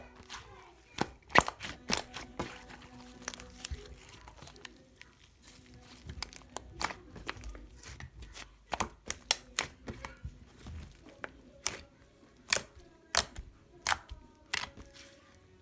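Cloud slime being stretched and squeezed by hand, giving irregular sharp crackles and crunchy tearing sounds.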